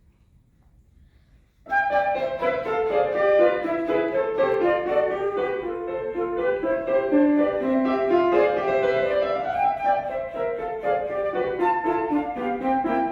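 Flute and piano duet starting abruptly about a second and a half in, after a short quiet, then playing on in a run of short notes.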